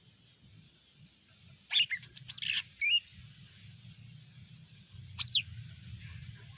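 Cucak ijo mini (a small leafbird) calling: a quick run of sharp, high falling notes with a harsher note and an upturned whistle at its end, then a second short call of two falling notes a couple of seconds later.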